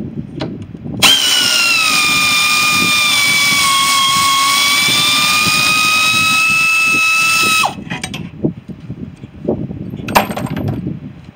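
Cordless reciprocating saw running under load for about six and a half seconds while cutting metal, its motor whine dipping in pitch as it bites and climbing back before it stops suddenly. A few knocks follow near the end.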